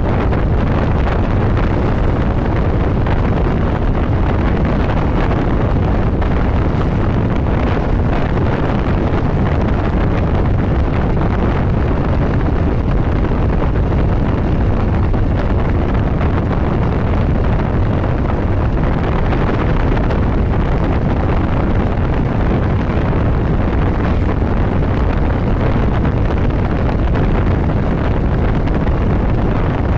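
Steady, loud wind rush over the microphone of a motorcycle riding at road speed, with the bike's running noise underneath.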